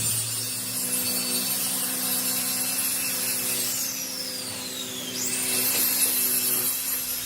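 Handheld power grinder abrading tyre rubber. Its motor pitch falls away about three seconds in and spins back up just after five seconds.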